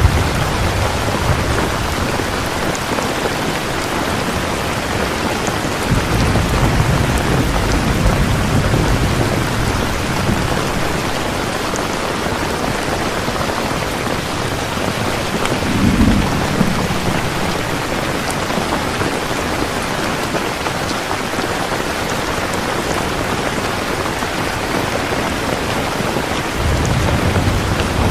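Steady heavy rain falling, with low rumbles of thunder: a long one starting about six seconds in, a short one about halfway through, and another near the end.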